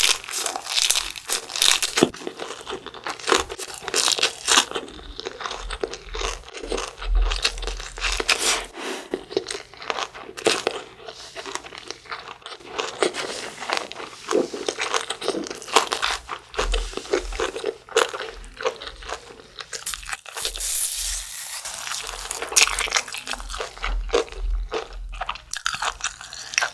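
Close-miked chewing of a lettuce wrap of fermented skate: irregular wet crunches and mouth clicks.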